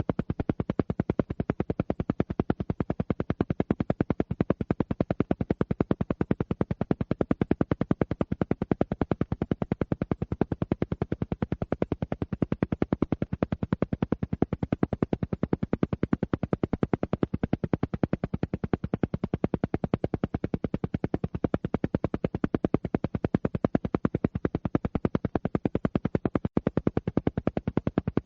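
Alpha-wave isochronic pulse track: a rapid, perfectly even train of short pulses repeating unchanged, the kind of beat used for alpha-range brainwave entrainment.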